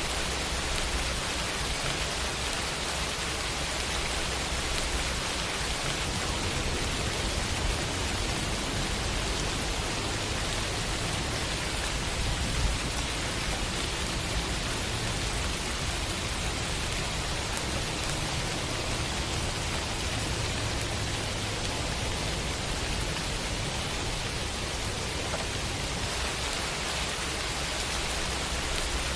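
Steady heavy rain, an even hiss with a low rumble underneath, and one brief louder drop-like tick about twelve seconds in.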